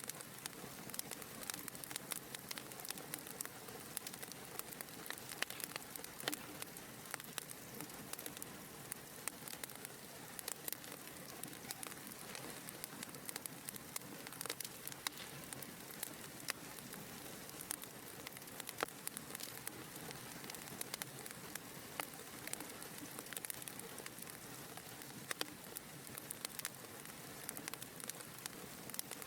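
Wood fire burning in a fireplace, crackling steadily with many small sharp pops over a soft hiss of flames.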